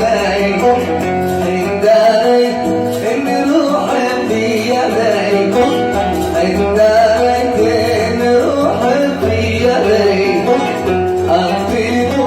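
An oud playing a Sanaani (Yemeni) song melody in quick plucked notes, with a man singing along.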